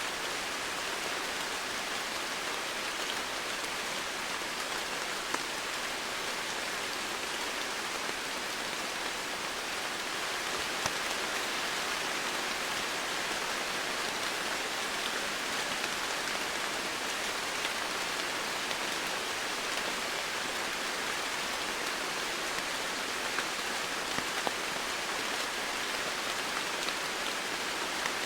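Steady rain falling, an even hiss with occasional single drops ticking out above it.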